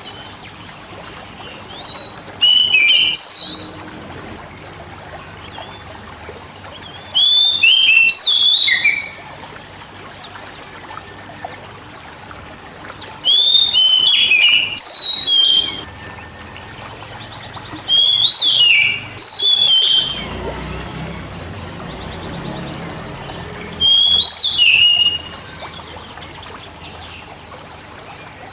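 Oriental magpie-robin (kacer) singing: five loud phrases of clear whistled notes that slide up and down, each lasting one to two seconds, about five seconds apart.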